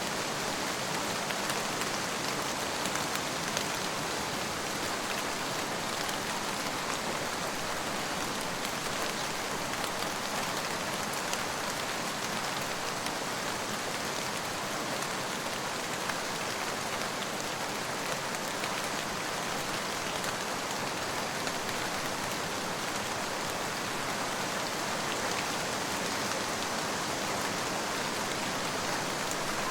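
Steady rain falling on a surface: an even hiss with scattered raindrop ticks.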